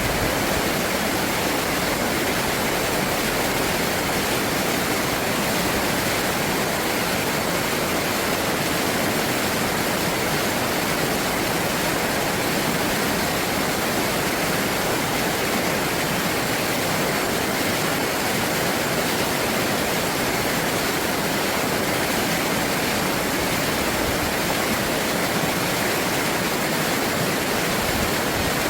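Stream water rushing steadily, an even unbroken noise with no distinct events.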